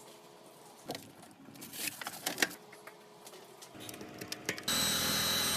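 Clicks and knocks of objects being handled. About a second before the end an electric drill starts suddenly and runs with a steady high whine, driving a homemade cotton candy spinner.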